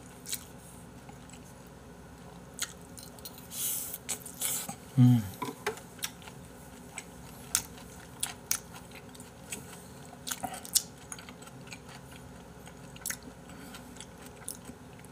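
A man chewing a mouthful of spicy chicken and beef-tripe stew with open-mouthed smacking and scattered wet mouth clicks. There is a brief vocal sound about five seconds in.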